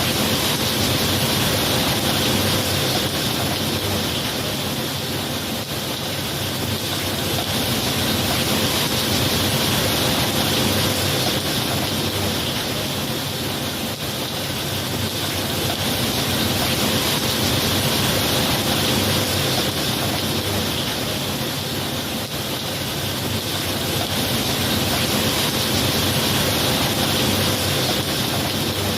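Steady rain, a dense even hiss that slowly swells and eases every several seconds.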